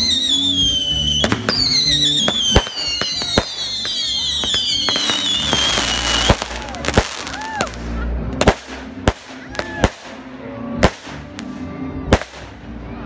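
Fireworks going off: a run of whistling fireworks, each whistle falling in pitch over about a second and a half, with sharp cracks between them. The whistles stop about six seconds in, and separate sharp bangs from exploding aerial shells follow, about one a second.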